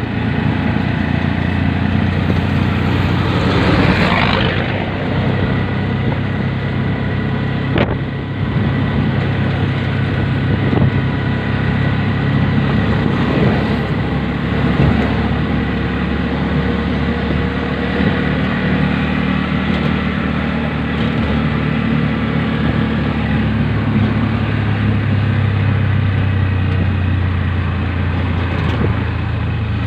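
Motor vehicle engine running steadily while riding along a town road, with road and traffic noise; a passing vehicle swells up briefly about three to four seconds in.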